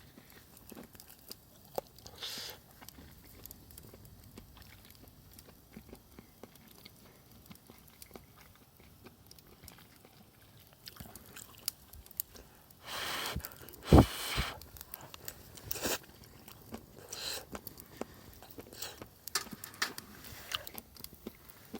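A person eating, chewing and biting with occasional crunches. Scattered small clicks and knocks, the loudest a sharp knock about fourteen seconds in.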